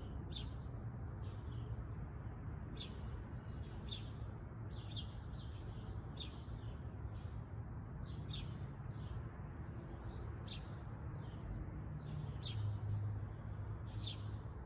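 Small birds chirping: short high chirps repeating about once a second, over a steady low rumble.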